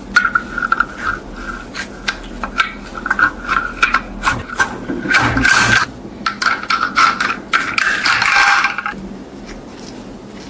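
Workshop scraping and rubbing with many light knocks and clicks, and a thin steady whine that comes and goes; longer hissing scrapes come about halfway through and again shortly before the end.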